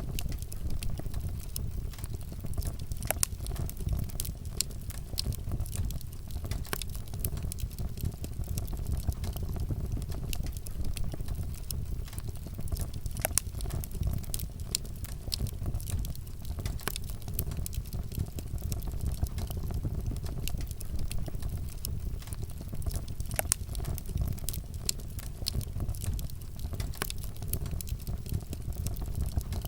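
Campfire burning, with a steady low rumble of flame and frequent sharp crackles and pops of burning wood scattered irregularly throughout.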